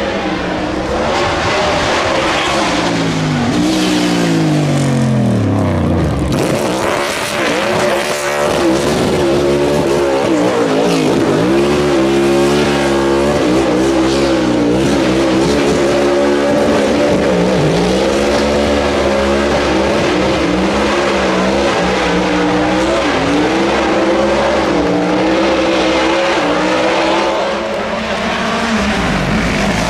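Race car engine revving hard, its pitch dropping steeply a few seconds in, then swinging up and down again and again as the throttle is worked, over the hiss of sliding tyres.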